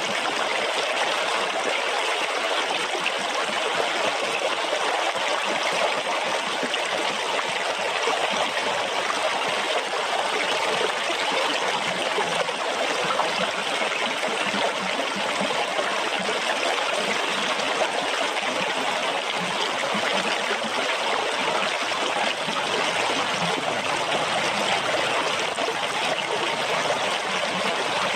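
Water running and splashing in a steady, unbroken rush.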